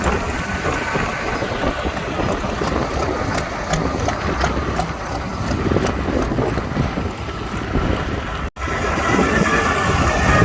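Pulling tractor engine running loud and rough, with wind buffeting the microphone. The sound cuts out for an instant about eight and a half seconds in.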